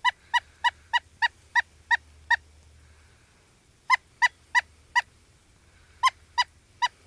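A woodpecker giving short, sharp calls, about three a second, in three runs: a long run of about nine calls, then after a pause two shorter runs of four.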